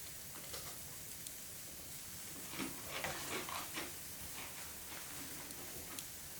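Wood fire crackling: a steady hiss with scattered small pops and a few louder crackles around the middle.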